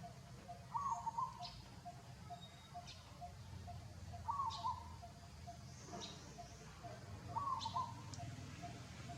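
Birds calling: a short warbling call repeated three times, about three seconds apart, over a steady fast pulsing note and brief high chirps.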